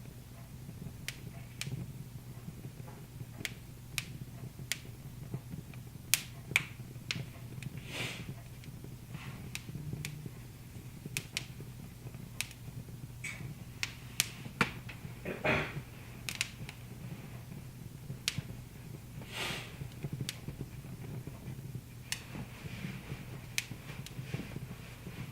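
Wood fire crackling in a fireplace: irregular sharp pops and snaps, a few louder than the rest, with short hisses, over a steady low hum.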